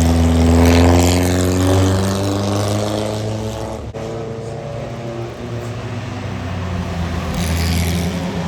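A racing car's engine passing by, its pitch sliding down as it goes away. After about four seconds, steadier engine running follows.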